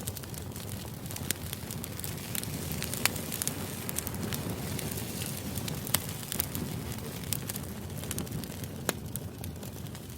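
Crackling fire used as white-noise ambience: a steady low rush with frequent sharp, irregular pops and snaps.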